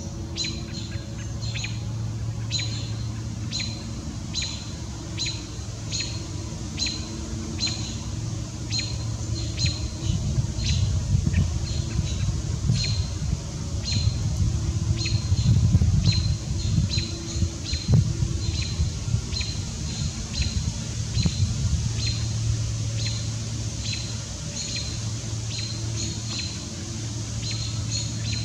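A bird's short, sharp, high chip calls repeating steadily, a little more than one a second, over a steady low hum that grows louder and more rumbling in the middle.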